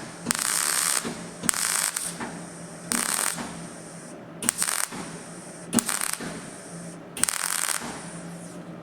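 Welder laying short stitch welds on thin sheet-steel sill panel, about six brief crackling bursts roughly a second and a half apart with a steady hum between them. The welds are being pulsed to fill gaps between tacks without overheating the thin metal; one burst blows a tiny hole that is then filled again.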